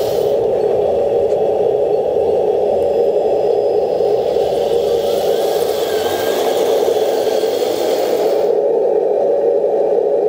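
Radio-controlled Leopard tank model's new drive motor and transmission running with a steady whir. A hiss higher up cuts out about eight and a half seconds in.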